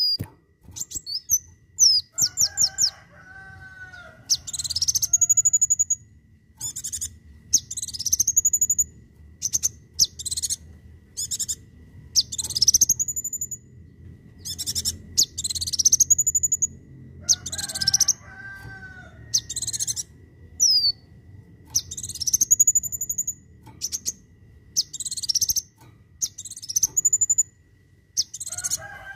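Kolibri wulung, a sunbird, singing loud repeated high calls. Each call is a quick upward sweep ending in a short held note, repeated every second or two with sharp chips between them. A lower, rougher call is heard three times: a few seconds in, about midway and at the very end.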